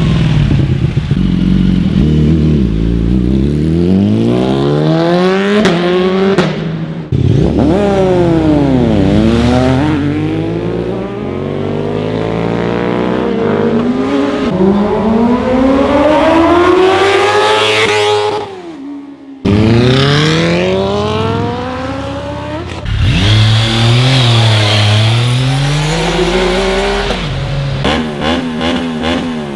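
Sportbike engines accelerating hard through the gears: each rising whine drops back at every upshift. The exhausts are loud, and several passes follow one another.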